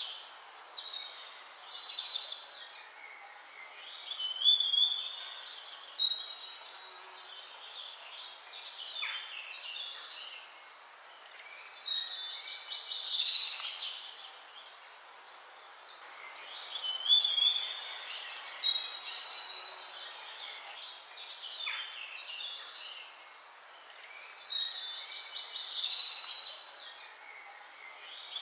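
Several songbirds singing, with bursts of high whistles, trills and chirps every few seconds over a faint background hiss.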